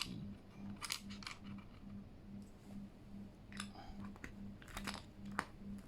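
A few separate sharp plastic clicks and clacks of keycaps being pulled off and pressed onto a Keychron K8 mechanical keyboard, over a faint low hum that pulses about three times a second.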